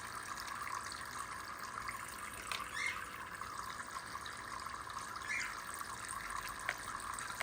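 Steady trickle of running water, with a couple of brief faint sounds about three and five and a half seconds in.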